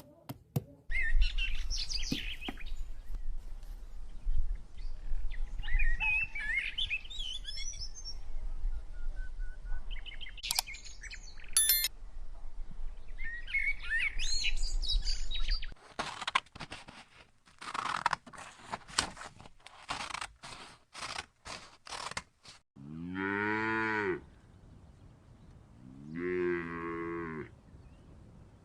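Cow mooing twice near the end, each moo about a second and a half long and rising then falling in pitch. Earlier there are scattered bird chirps, then a quick run of sharp clicks.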